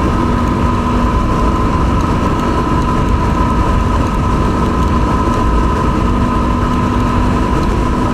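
Yamaha WR250R's single-cylinder engine running at a steady cruising speed, its pitch holding level, under heavy wind rumble and road noise on the rider's microphone.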